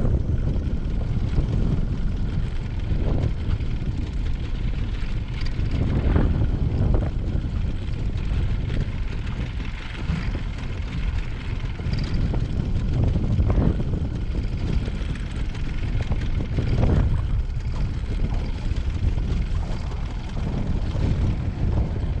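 Strong wind buffeting the microphone: a loud, steady low rumble that swells in brief gusts every few seconds.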